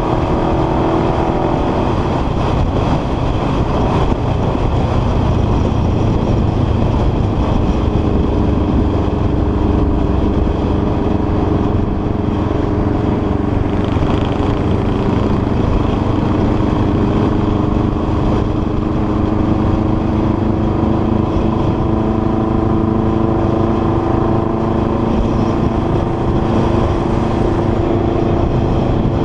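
Honda CBR sport bike engine running at road speed, heard from the rider's seat under a steady rush of wind noise. Its pitch falls in the first couple of seconds, then holds and rises slowly through the second half.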